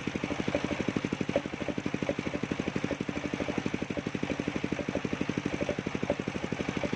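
Engine of a mobile circular sawmill running steadily, with an even beat of about ten pulses a second.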